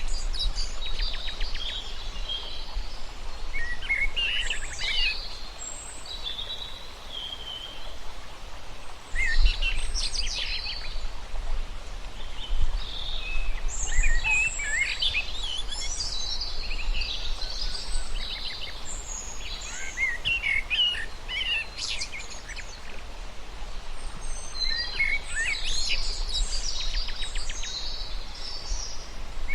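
Several birds chirping and singing in quick overlapping phrases, in clusters that come and go, over a steady low rumble.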